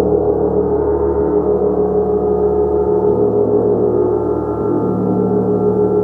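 Gong played continuously: a loud, sustained wash of many overlapping tones, shimmering and beating, with no single strike standing out.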